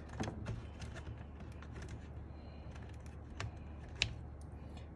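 Scattered small plastic clicks and taps as stabilizers are pried out of a mechanical keyboard with tweezers, the sharpest click about four seconds in, over a low steady hum.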